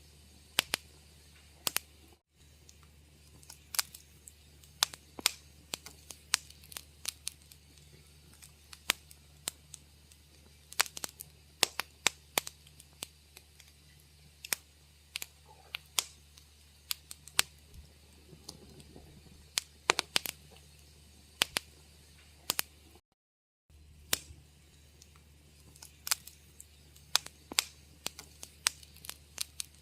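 Wood fire crackling in a fireplace: irregular sharp pops and snaps, several a second, over a steady low hum. The sound cuts out completely for a moment about two seconds in and again for under a second around two-thirds through.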